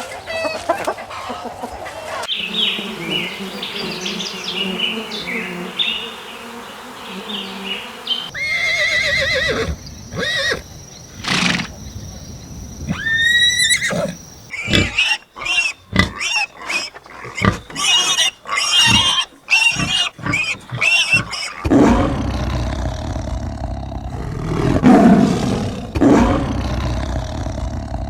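A run of different animal calls, one after another, changing abruptly every few seconds.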